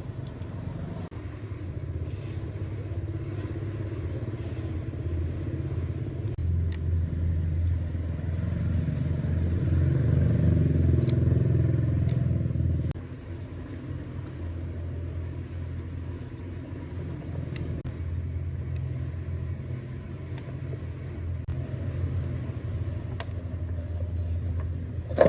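A motor running with a steady low hum. It grows louder over several seconds, then drops back suddenly about halfway through and keeps running more quietly.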